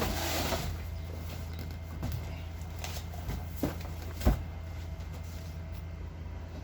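Handling noises while unboxing network equipment: a brief rustle, then a few sharp clicks and knocks, the loudest about four seconds in, over a steady low hum.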